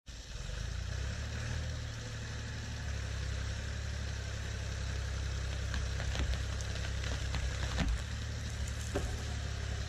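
Tractor engine idling steadily with a low rumble, and a few light clicks or knocks in the last few seconds.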